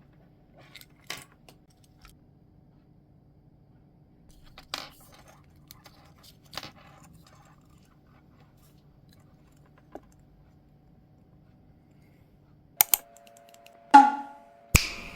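Small hard objects being handled: scattered sharp clicks and knocks, a few seconds apart, with a quicker run of louder knocks and clinks near the end.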